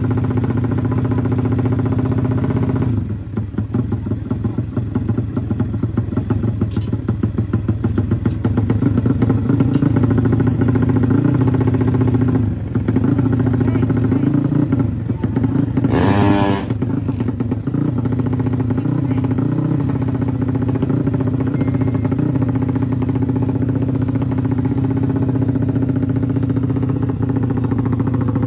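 Drag-racing motorcycle engine running on the paddock stand at a steady fast idle. It drops in level about three seconds in and gives one quick sharp rev about sixteen seconds in.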